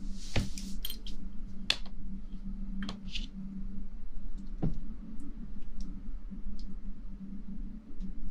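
Scattered soft clicks and brief rustles close to the microphone, a few a second at most, over a steady low hum.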